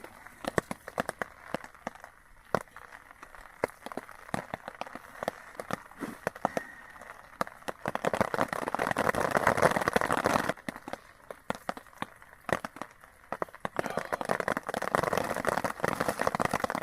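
Rain dripping and tapping irregularly on a tarp shelter, with two stretches of louder rustling and crinkling, one about halfway through and one near the end.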